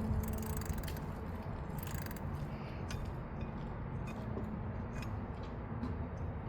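Scattered light metallic clicks and ticks of a wrench working a stubborn water pump bolt back and forth, loosening it a little at a time, over a steady low hum.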